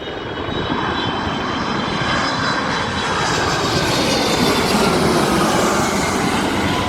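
Jet airliner's engines passing close by: a loud rushing roar that swells over the first few seconds and eases slightly near the end, with a faint turbine whine sliding slowly down in pitch.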